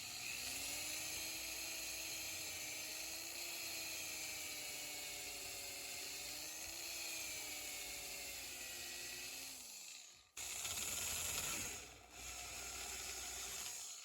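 Small power-tool motor running for about ten seconds with a wavering pitch, as if under changing load, then stopping. Two shorter bursts of hissing, grinding-like noise follow.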